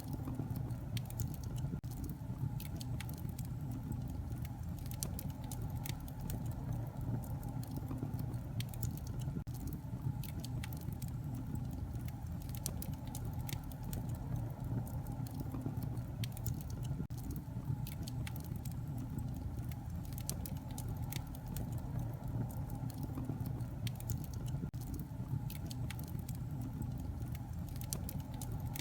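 Wood fire crackling in a fireplace: a steady low rumble of flame with frequent sharp pops and snaps.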